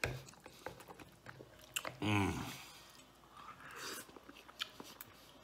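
A man chewing a mouthful of spaghetti in tomato sauce, with small wet clicks from mouth and fork. About two seconds in comes a short hum from the throat, the loudest moment.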